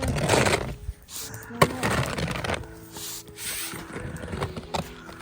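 Several rough swishing scrapes of snow being pushed or brushed, over faint background music.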